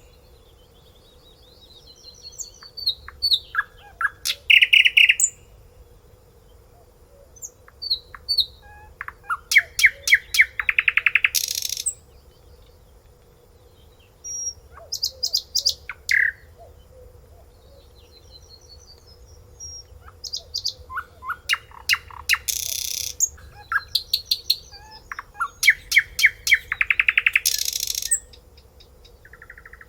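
A songbird singing: loud phrases of rapid repeated notes and trills, separated by pauses of a few seconds, over a faint steady hum.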